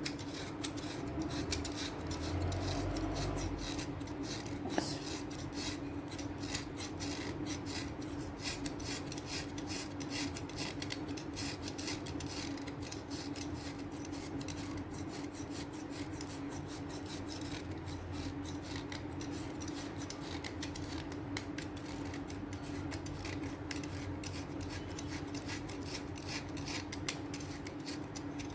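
Chalk-type sticks being cut and scraped with a blade: a continuous run of fine, crisp crunching scrapes.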